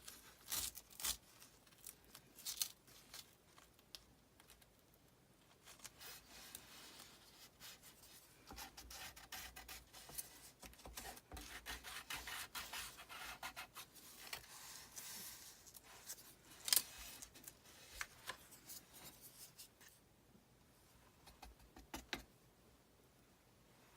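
Soft, irregular rubbing and scraping from hand crafting work on a Chalk Couture transfer, with scattered light taps and one sharper tap a little past the middle.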